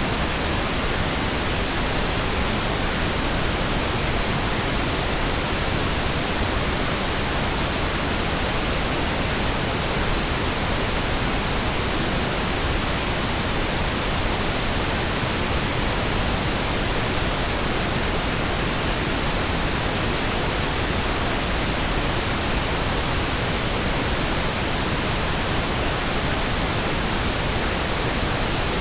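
Pink noise: a steady, even hiss spread across the whole range of pitch, with no changes.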